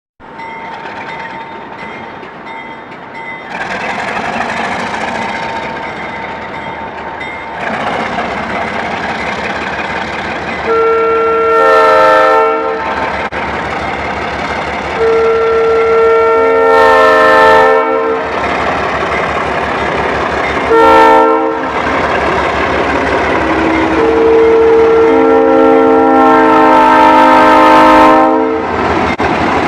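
Vintage ALCO diesel locomotives running past, their engine noise growing louder as they approach, sounding a multi-note air horn in the grade-crossing pattern: two long blasts, a short one, then a long one.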